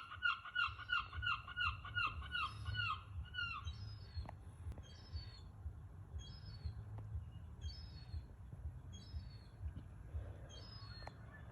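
Birds calling. A fast run of short hooked notes, about four a second, is followed after a few seconds by higher, downward-sliding notes about once a second.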